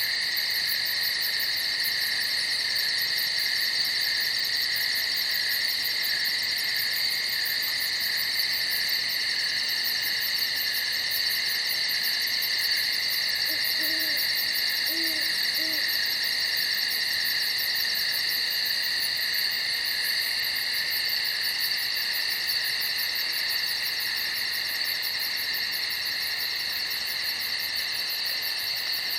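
Night chorus of crickets trilling without a break, a dense layer of several steady high pitches. About halfway through, three faint short low calls sound under the chorus.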